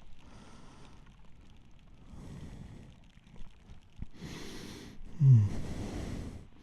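A person breathing heavily close to the microphone, a noisy breath every second or two, with a loud voiced sigh falling in pitch about five seconds in.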